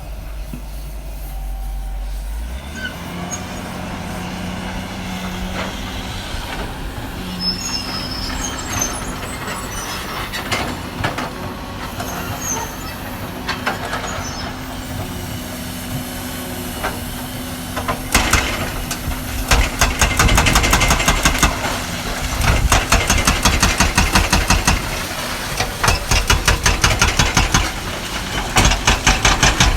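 Caterpillar 320D hydraulic excavator working on a demolition: its diesel engine runs steadily under scattered knocks and clatter. About twenty seconds in, a loud rapid rhythmic pounding of about five beats a second starts and keeps going.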